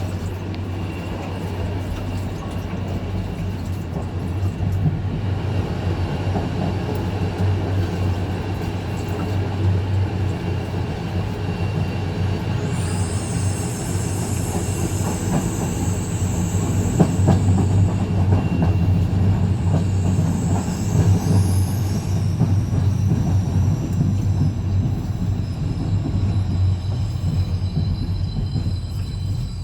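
IC Uznam passenger train running on the rails with a steady low rumble. A high-pitched wheel squeal starts about 13 seconds in and lasts a few seconds, and shorter wavering squeals follow around 20 seconds in.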